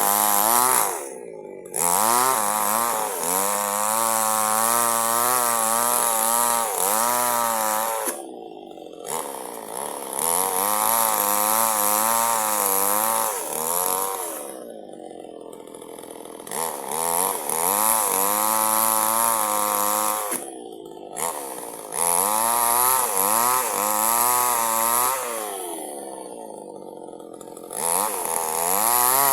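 Small chainsaw cutting durian wood: the engine runs at high revs with its pitch wavering under load. It drops back briefly to idle between passes, five times, about every six seconds.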